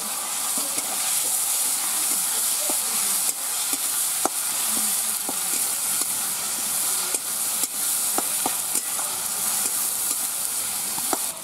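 Spice paste and tomatoes sizzling in hot oil in a metal wok, stirred with a flat metal spatula. A steady frying hiss runs under scattered sharp clicks and scrapes where the spatula knocks the pan.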